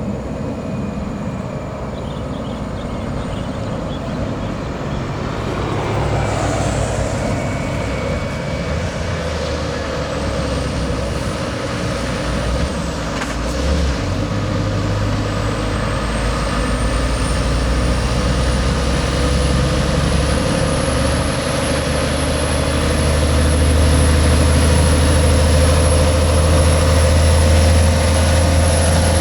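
Heavy diesel truck engine labouring up a steep climb, a deep steady hum that grows louder toward the end as the truck comes closer. A high whine rises in pitch about halfway through.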